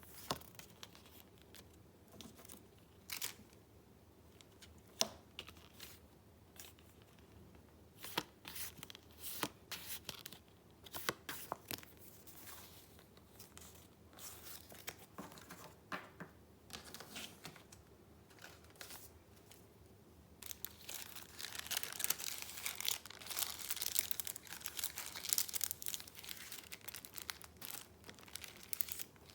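Paper handled close to the microphone: scattered rustles and light taps, then, about twenty seconds in, a dense stretch of crinkling paper lasting several seconds.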